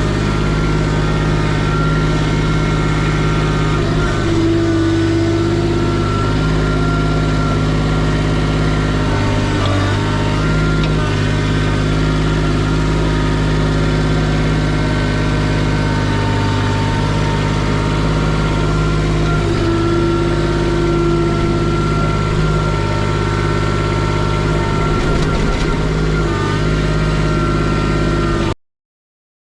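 A Kubota machine's engine running steadily, with higher tones coming and going over it, cutting off abruptly about a second before the end.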